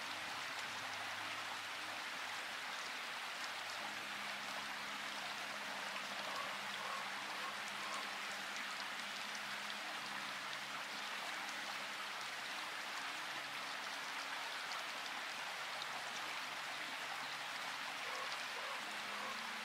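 Steady rain falling, an even hiss of many drops. Faint low held tones sit beneath it, shifting every few seconds.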